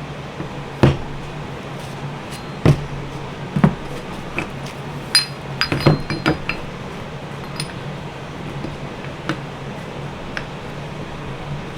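Metal engine parts clinking and tapping as a piston and connecting rod are handled and fitted together. There are a few sharp clicks and a cluster of ringing clinks about five to six seconds in, over a steady low hum.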